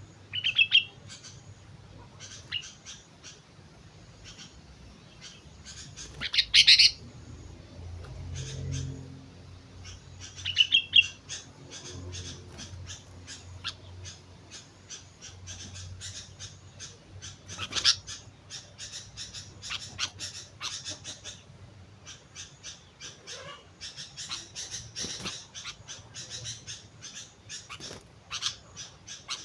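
Sooty-headed bulbul (kutilang) calling: a few loud, short, sharp notes every several seconds, with rapid chattering notes in between that grow busier in the later part.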